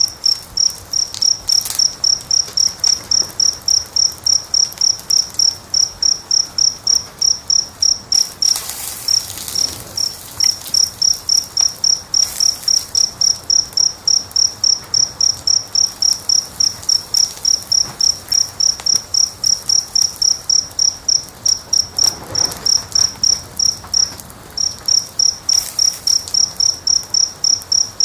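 A cricket chirping in a steady rhythm, about three chirps a second, with short breaks twice. Underneath is a soft hiss with occasional crackles from a wood fire.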